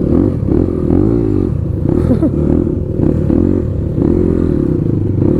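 Motorcycle engine running under way, its pitch rising and falling several times as the throttle is opened and eased, over a steady low rumble.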